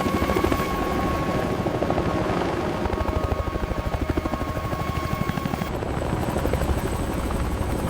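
Helicopter running, with a rapid, even beat from the rotor blades under a steady turbine whine.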